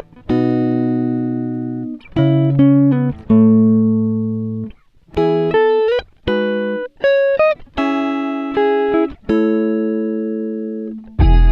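Background music: a plucked guitar playing single notes and chords that ring out and fade, with a fuller band and bass coming in near the end.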